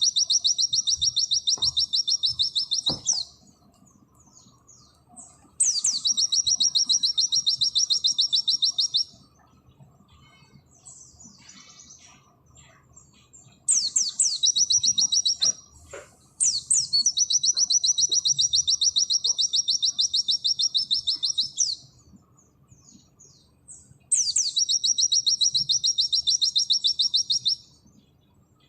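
Pleci (white-eye) singing in its rapid-fire 'nembak' style: five long bursts of fast, high, evenly repeated notes, each lasting a few seconds and opening with a quick sweep. Soft scattered chirps fill the gaps between bursts.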